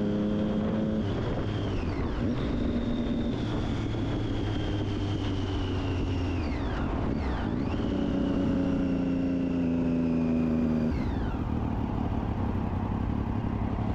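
Triumph Daytona 675's three-cylinder engine running through an Akrapovic exhaust while riding. The engine holds a steady note that sags slowly, with its pitch dropping abruptly a few times.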